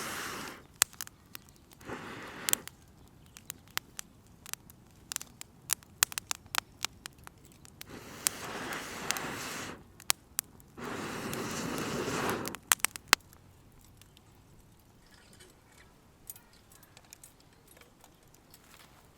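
Wood fire crackling with many sharp, irregular pops. Three bursts of rustling, scraping noise lasting one to two seconds each come near the start and in the middle. The pops thin out in the last few seconds.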